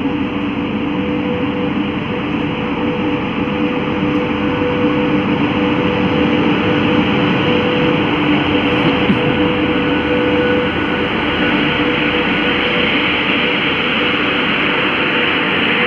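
WAP-5 electric locomotive pulling a passenger train slowly past along the platform, then its coaches rolling by: a steady rumble of wheels on rail with two held low tones from the locomotive.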